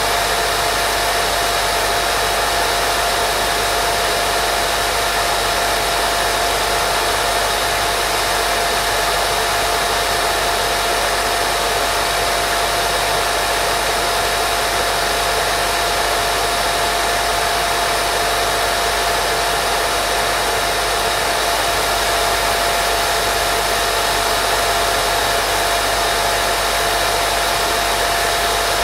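Steady white noise for baby sleep: an even, unchanging hiss with a faint steady tone running through it.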